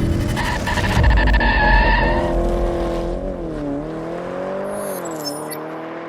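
Car sound effect: loud tyre and engine noise, then an engine note that dips and rises a few times before fading away.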